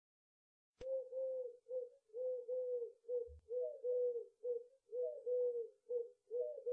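A dove cooing: a steady run of short, low coos, about two a second, starting about a second in.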